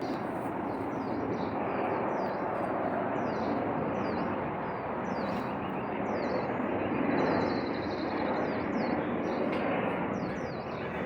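Small birds chirping repeatedly, with quick high notes that sweep downward, over a steady background rumble.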